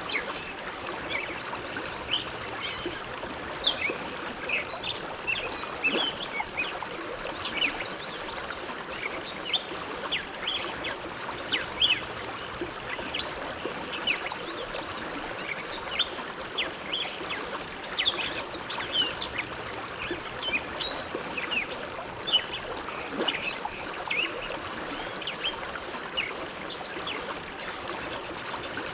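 The Bow River flowing: a steady rush of water with constant small, irregular splashes and gurgles.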